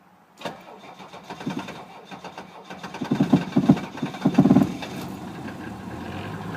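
Cold start of a 1979 Mercedes-Benz 300SD's OM617.950 five-cylinder diesel at 25 °F. The starter begins cranking about half a second in, and the engine fires in heavy uneven bursts. It catches about four and a half seconds in and settles into a steady idle.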